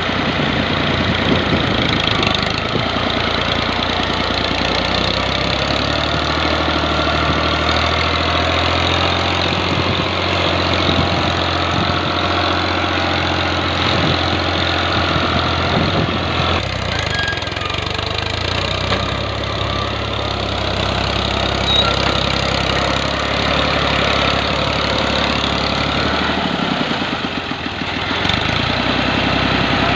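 Tractor diesel engine running steadily, dipping briefly in level near the end.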